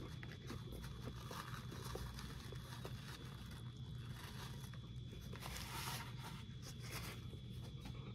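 Close chewing and mouth noises of a man eating a big bite of fried herring in marinade, with many small clicks and rustles, over a steady low hum.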